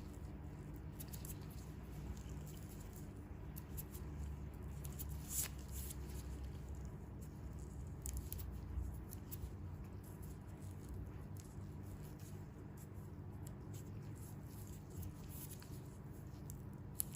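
Faint close-up handling of bare feet: soft rubbing with scattered small crackles and light taps, over a steady low hum.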